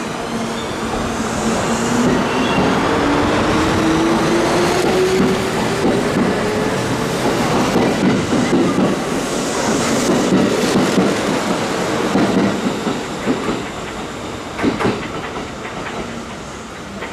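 Kintetsu limited express electric train pulling out: the motor whine rises in pitch over the first several seconds as it gathers speed. Then the wheels rumble and clatter over the rail joints as the cars pass, with the sound dying away as the train draws off, broken by a couple of sharp clacks near the end.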